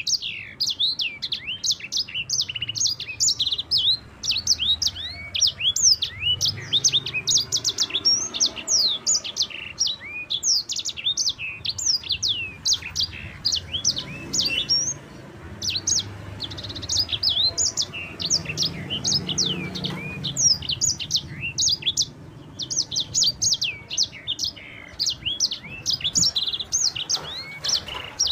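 Sanger songbird, a caged canary-type finch, singing a long, fast rolling song of rapid high chirps, with brief pauses about halfway through and near the end.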